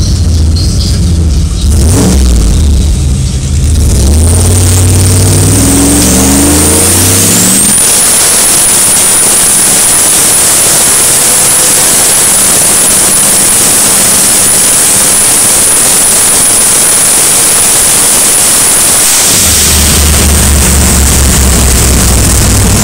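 Big-turbo Chevrolet Chevelle drag car: the engine's low rumble, then revving up hard at launch, followed by a very loud run with a high whine that rises and then holds. About nineteen seconds in the whine stops and the low engine rumble returns as it slows.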